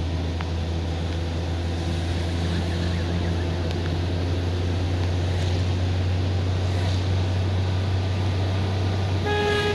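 Steady low drone of a car's engine and tyres on wet road, heard from inside the moving car. Near the end a car horn sounds once, a single held honk.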